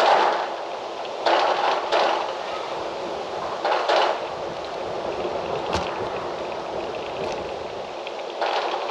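Wind blowing in gusts through trees, a steady rushing hiss that swells into louder surges several times, with one sharp click a little before six seconds in.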